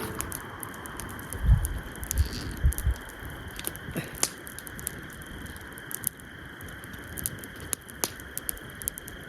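Campfire crackling, with scattered sharp pops throughout and a few low thumps about a second and a half to three seconds in, over a steady high background hiss.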